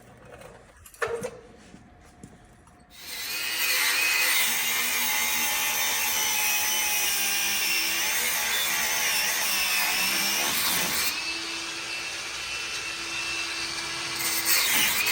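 A handheld power tool starting about three seconds in and running steadily, cutting into a seized Torsilastic suspension part on a Flxible bus, its pitch shifting as it works under load. Before it starts there is a single sharp knock.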